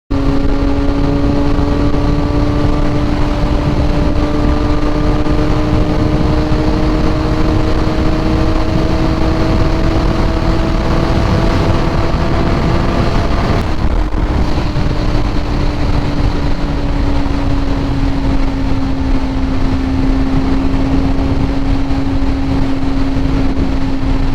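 Kawasaki ZX-4RR's 399 cc inline-four engine running at high revs at high speed under heavy wind noise. The note climbs slowly and steadily, the bike straining to gain speed at around 100 mph. About fourteen seconds in it breaks briefly, then eases slowly down.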